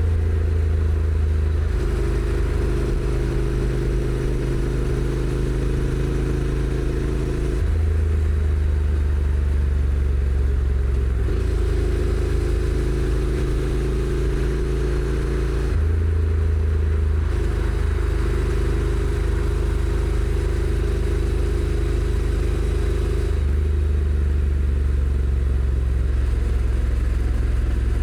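Honda NC750X's 745 cc parallel-twin engine running through its stock exhaust while riding, the engine note holding steady and then stepping abruptly to a different pitch several times.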